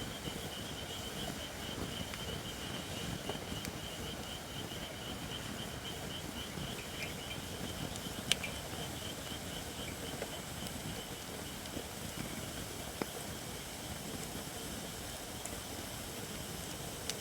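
Campfire of Japanese white oak logs, not yet fully seasoned, burning with a steady low crackle and one sharp pop about eight seconds in, with a smaller click a few seconds later. A high, rapidly pulsing chirp runs faintly in the background and fades out.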